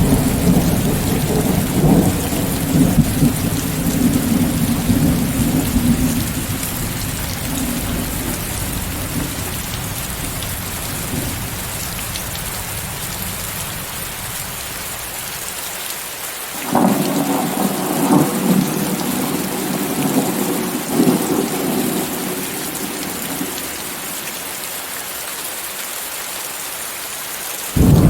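Steady rain with a hiss of white noise under rolling thunder. A rumble fades away over the first dozen seconds. Another starts suddenly about two-thirds of the way through and dies down, and a third breaks in right at the end.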